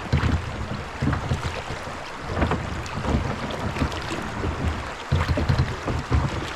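Water rushing and splashing around a kayak moving down a shallow creek, with uneven gusts of wind buffeting the microphone.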